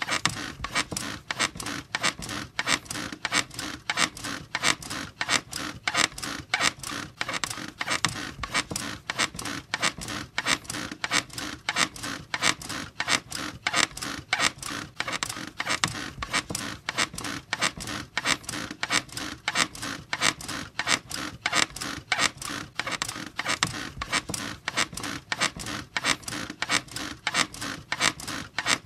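Bed springs and frame squeaking in a steady rhythm, a few squeaks a second, over and over.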